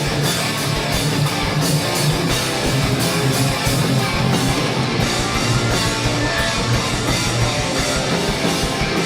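Live metalcore band playing an instrumental passage: heavily distorted electric guitars and bass over a fast, driving drum kit, with no vocals.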